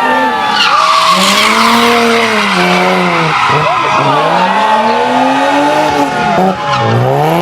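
Hillclimb race car engine at full throttle, the revs climbing and falling twice and dropping low about three and a half and seven seconds in, as the car brakes and accelerates through corners. Tyres squeal for a couple of seconds, starting about a second in.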